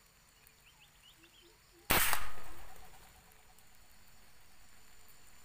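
A single gunshot about two seconds in, its report fading over about a second. It is the shot that brings down a pergam (imperial pigeon).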